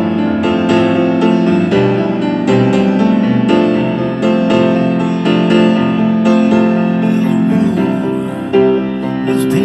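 Piano playing an instrumental passage of a rock song, with chords and notes struck in a steady pulse.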